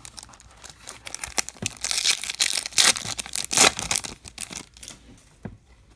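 Foil wrapper of a trading-card pack being torn open and crinkled, a dense crackling that is loudest in the middle and fades out about four and a half seconds in.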